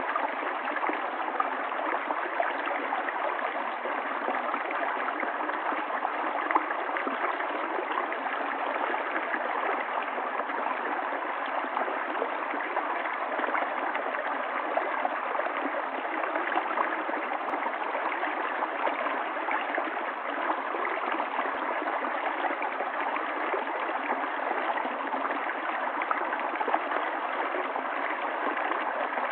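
Running water of a stream, flowing steadily and evenly without a break.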